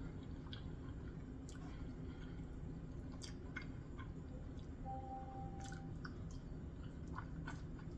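Faint chewing and wet mouth clicks as a barbecue rib tip is bitten and eaten by hand, over a low steady room hum.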